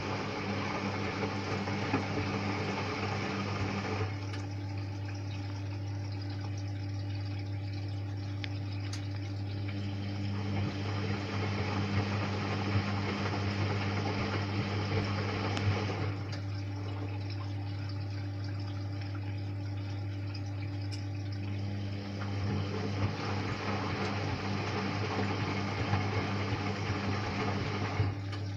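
Hotpoint-Ariston washing machine running a wash on its quick 'Mix 15' programme: water swishing in the drum over a steady low hum. The sound shifts every several seconds as the drum's turning starts and stops.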